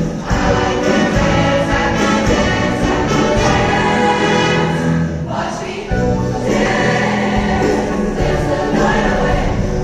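A choir singing with instrumental accompaniment, with a brief dip in the music a little past the middle.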